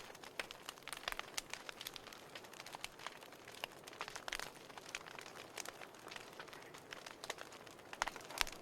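Burning firewood crackling and popping in irregular sharp snaps over a soft hiss, with a few louder pops about a second in and near the end.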